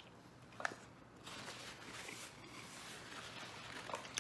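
Faint chewing of a mouthful of deep-dish pizza, with a soft mouth click just after the start and another near the end.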